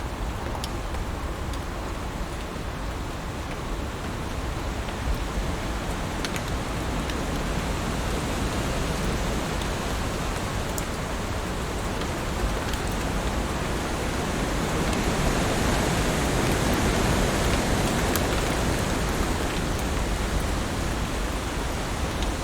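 Heavy rain falling steadily, an even hiss with a few sharp drop ticks scattered through it, swelling a little louder about two-thirds of the way in.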